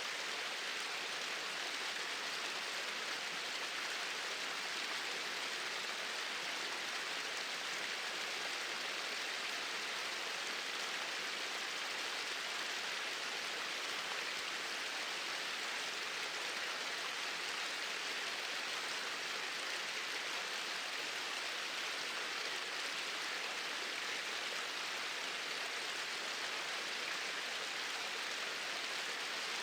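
Small waterfall running in a steady, even rush of falling water.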